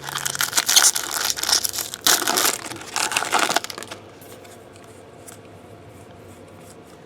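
Plastic wrapper of a trading card pack crinkling and tearing as it is ripped open, for about four seconds, then a few faint ticks.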